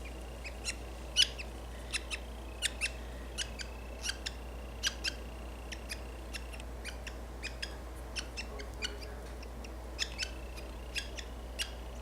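Budgies chirping: short, sharp high chirps repeating irregularly, roughly two a second, with a faint thin high whistle coming and going.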